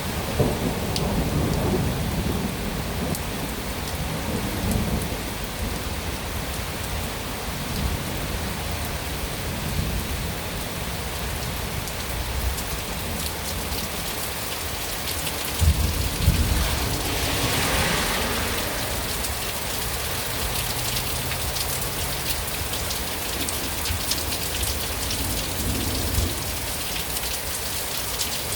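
Heavy rain pouring steadily during a thunderstorm, with thunder rumbling. A louder clap of thunder comes a little past halfway, followed by a brief swell in the rain's hiss.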